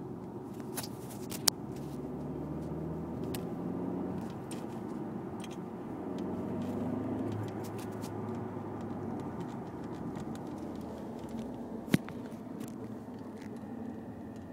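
Audi A4 2.0T turbocharged four-cylinder engine running, its pitch rising twice in gentle revs and settling back. Two sharp clicks stand out, one early and one about three quarters of the way through.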